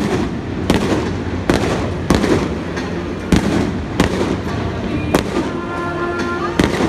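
Aerial fireworks shells bursting: a string of about ten sharp bangs, coming roughly every half second to a second.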